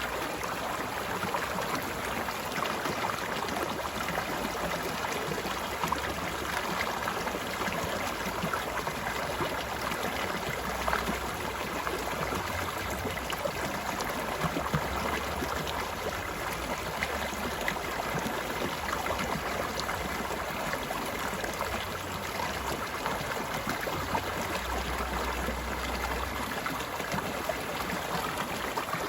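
Stream water flowing and gurgling over stones, a steady, even rush with small splashes throughout.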